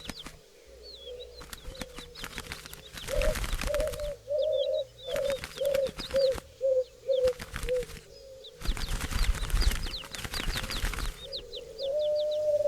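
Doves cooing: a run of short low notes, getting shorter toward the end, with small birds chirping high above. Several noisy rushes, like wingbeats, come in between.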